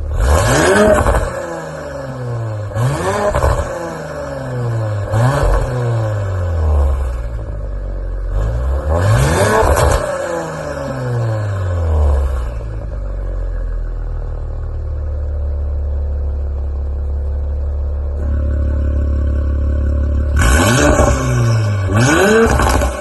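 Audi RS5 B9's twin-turbo 2.9-litre V6 free-revving through an ARMYTRIX valvetronic exhaust. It gives four sharp throttle blips, each rising fast and falling back to idle, then settles into a steady idle, then gives a quick run of three blips near the end.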